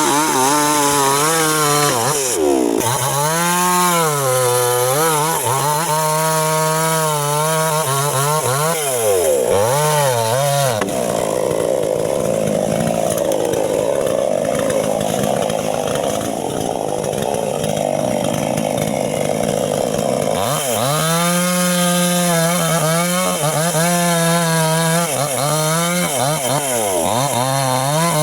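Small chainsaw engine revved up and down over and over, then held under load cutting wood for about ten seconds in the middle with a lower, rougher sound, before going back to repeated revving.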